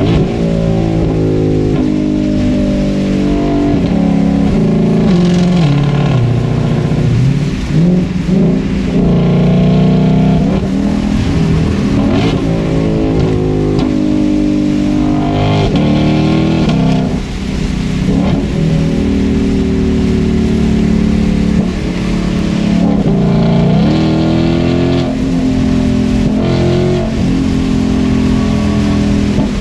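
Ford Shelby GT500's supercharged V8 running while driving, its pitch repeatedly falling and rising again as it shifts gears and accelerates.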